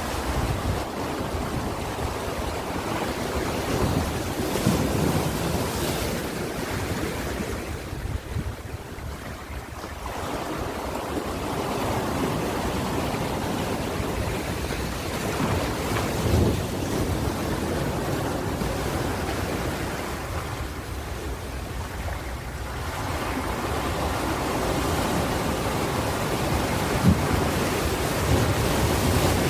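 Ocean surf washing in and out, a continuous rush of waves that swells and eases, dipping about a third of the way in and again past two-thirds before building back up.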